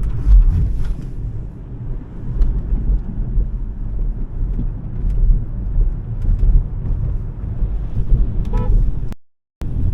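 Heavy, fluctuating low rumble of road and wind noise from the electric Smart #3 under way, with no engine note. A short pitched tone sounds near the end, and the sound cuts out for a moment just after it.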